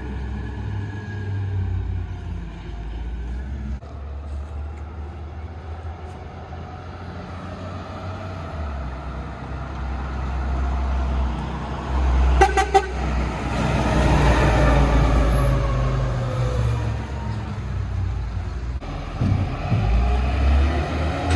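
Garbage truck's diesel engine running, with a quick burst of horn toots about halfway through. Straight after, the engine revs up and down for several seconds before settling again.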